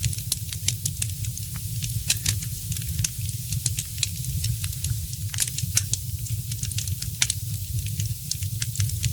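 Fire in a fireplace crackling, with many irregular sharp pops of varying loudness, several a second, over a steady low rumble.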